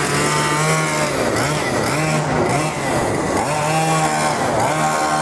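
Small two-stroke petrol engine of a large-scale RC car. It runs at a mostly steady high pitch and drops and climbs again a few times as the throttle is eased and reopened.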